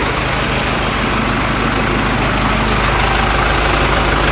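Isuzu truck engine idling steadily, with the A/C switched on and loading it.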